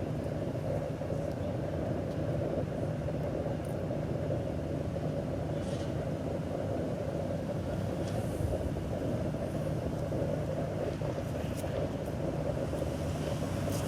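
Steady hum of a vehicle engine idling, unchanging throughout, with a few faint brief ticks.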